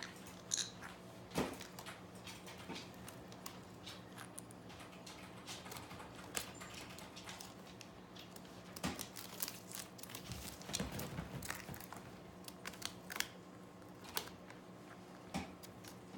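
Scattered small crunches and crinkles, irregular and quiet: a pet parrot nibbling at stolen chips.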